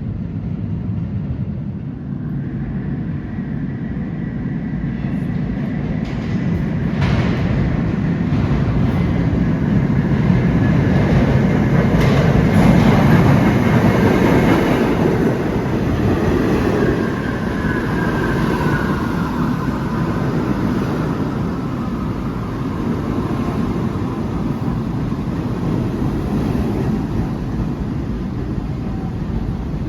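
A New York City subway train running through an underground station, growing louder toward the middle. A high whine falls in pitch in the second half.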